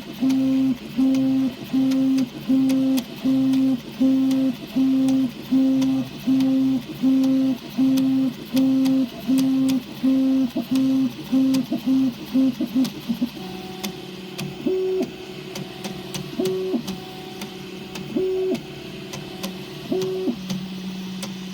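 Prusa i3 3D printer's stepper motors whining in short repeated moves, about once a second, for roughly twelve seconds, then changing to a steadier hum with a higher note every couple of seconds. Faint sharp clicks sound throughout: the clicking noise the printer is making.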